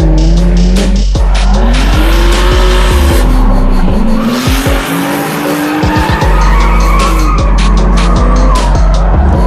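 Drift car engines revving up and down in repeated swells while the tyres squeal and skid as the cars slide.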